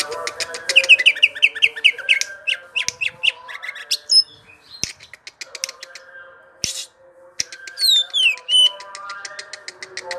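Cucak ijo (green leafbird) singing a long unbroken run of rapid varied chirps and trills, with sharp clicks and a few quick falling whistles near the end.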